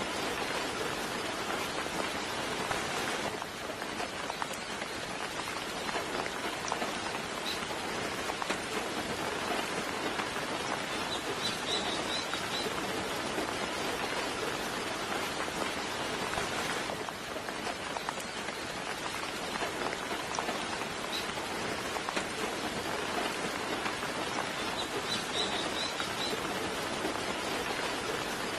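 Steady soft rain falling, with a few short, high bird chirps now and then: a cluster of chirps about twelve seconds in and another near the end.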